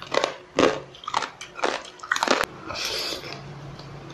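A person biting and chewing crisp food close to the microphone: about five sharp crunches in the first two and a half seconds, then a softer hiss and a low steady hum.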